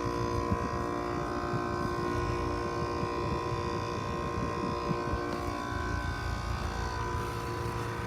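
Trane XR heat pump outdoor unit running in cooling mode, its compressor and condenser fan giving a steady hum with several held tones over a low rumble. The owner thinks it has a scroll compressor.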